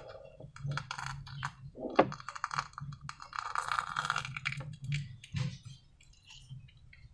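Sticky slime being squished and pulled by hand, giving wet crackling and clicking pops. The pops come in two dense flurries with a sharp click between them, then thin out near the end.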